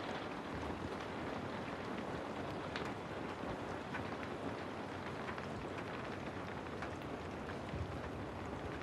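Steady rain ambience: an even wash of rainfall with scattered individual drops ticking.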